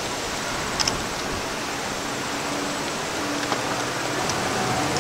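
Distant freight train led by a Union Pacific EMD SD70AH diesel locomotive crossing a steel trestle bridge: a steady rumbling hiss with a faint engine hum and a few sharp clicks.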